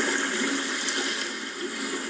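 Sea waves washing in: a continuous rushing noise of surf that swells slightly at the start.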